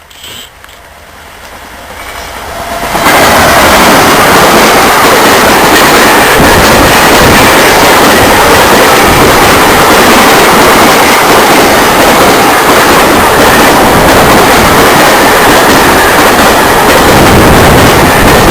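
Train passing close by: its noise builds over the first three seconds to a loud, steady rumble of wheels on rail that holds throughout.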